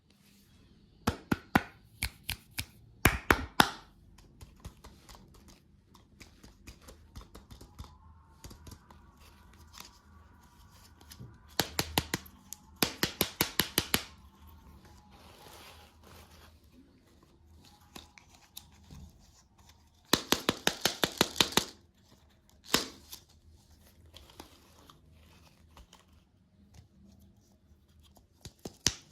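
Close-miked crackling of crunchy sweets, in several bursts of rapid crisp clicks with quieter gaps between them.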